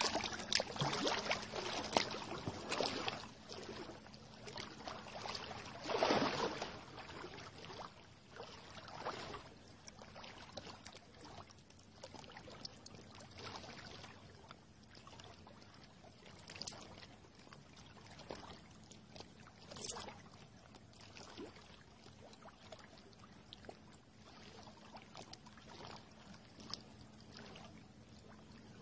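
Splashing from a swimmer moving through an icy river, in irregular strokes over the steady sound of the flowing water. The splashes are biggest in the first few seconds and grow sparser and fainter later, with single larger splashes about six, nine, seventeen and twenty seconds in.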